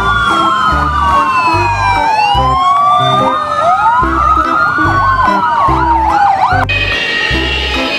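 Several fire engine sirens wailing at once, their slow rising and falling sweeps overlapping, over background music with a steady bass beat. The sirens cut off suddenly near the end, leaving only the music.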